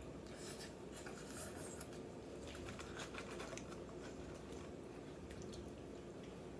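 Faint, scattered clicks and soft rustles of people eating, with food and its containers being handled, over a low steady hum.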